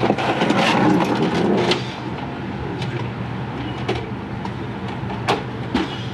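Shop work noise under a steady low hum: a couple of seconds of scraping and rustling, then a few sharp clicks and knocks of tools and metal parts being handled.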